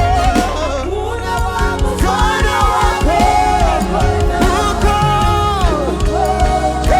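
Live gospel praise-and-worship music: a band with drums and bass under a sung melody of long, gliding notes.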